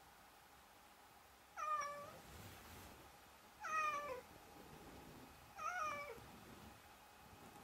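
A domestic cat meowing three times, about two seconds apart, each meow short and dropping in pitch at its end.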